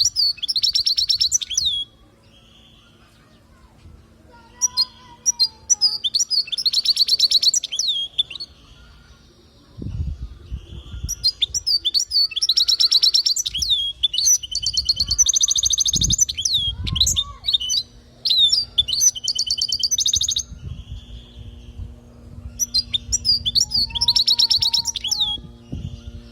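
European goldfinch singing: five bursts of rapid, high twittering trills separated by short pauses. A few low thuds are also heard.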